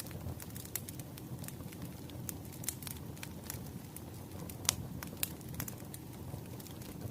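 Wood fire crackling, with a steady low rumble and irregular sharp pops and snaps, one louder pop a little past halfway.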